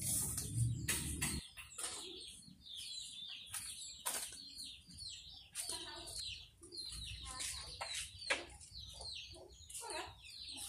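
A run of short, repeated bird calls, falling in pitch, with a few sharp clicks among them.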